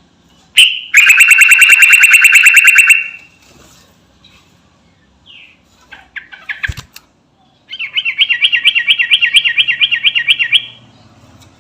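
Yellow-vented bulbul singing in full voice: two long, fast trills of rapidly repeated notes, the first about two seconds long and the second about three, with a few short chirps between them. A sharp click comes just before the first trill and another in the pause.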